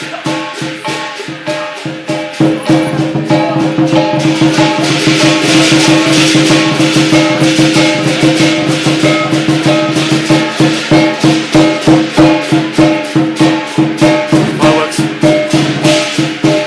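Lion dance percussion ensemble of drum, cymbals and gong playing a fast, even beat of about three strikes a second over a steady ringing tone. It grows louder over the first couple of seconds.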